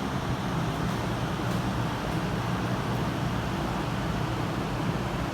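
Steady background rumble and hiss with a low hum, like distant road traffic or wind on the microphone.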